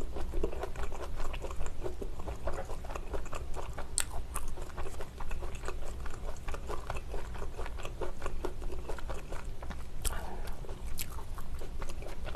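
Close-miked chewing of spicy tteokbokki rice cakes in sauce, with wet mouth sounds and many small irregular ticks. Chopsticks stir in a plastic delivery tub, and there are two sharp clicks, one about four seconds in and one near the end.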